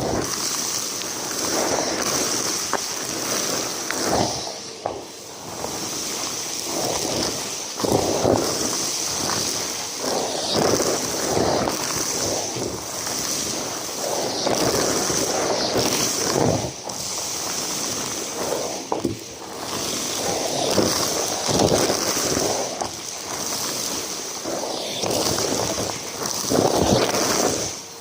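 Numatic James cylinder vacuum cleaner running with a steady high whine, with irregular noisy surges as scattered mess is sucked up.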